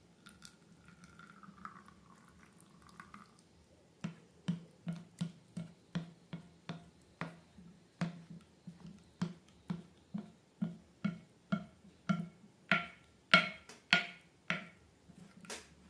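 Slime being worked by hand, making a rapid run of short sticky clicks and pops, about three a second, that get louder near the end.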